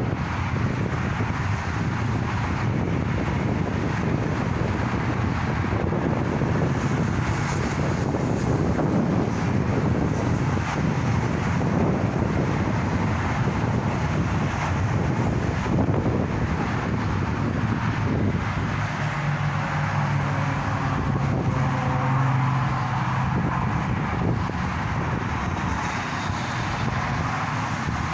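Steady road and engine noise of a moving car, heard from inside, with a low steady hum for a few seconds about two-thirds of the way through.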